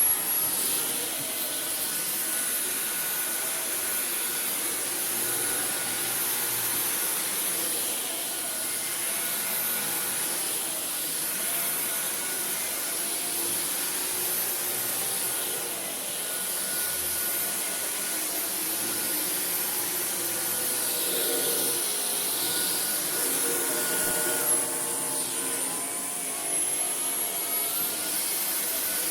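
Dyson V15 Detect cordless stick vacuum running over carpet, a steady motor noise with a high whine. Near the end the motor's pitch dips and then rises back up.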